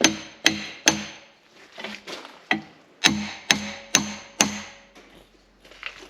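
A hammer striking a steel shaft on a mower, driving it through: three quick ringing metal blows, a pause, then five more at about two blows a second.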